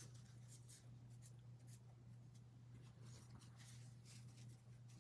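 Faint rustling and sliding of trading cards being handled and squared into stacks, a series of short soft swishes over a low steady hum.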